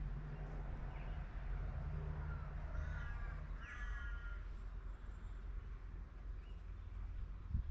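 Birds calling: two short calls with several stacked notes about three and four seconds in, and a few faint chirps, over a steady low hum.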